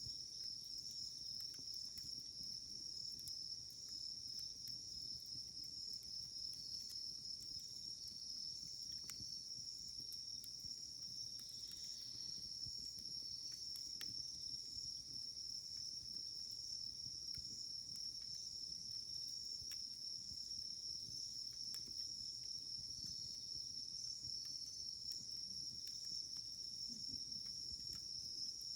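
Burning firewood crackling with sparse, sharp pops, over a steady, high-pitched trilling of insects.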